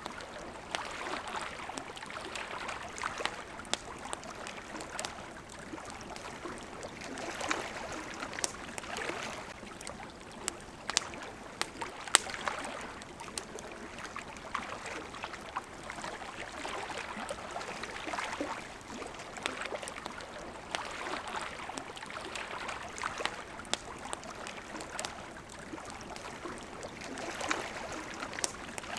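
Campfire crackling with scattered sharp pops, one louder pop about twelve seconds in, over water lapping at a shore in slow swells every few seconds.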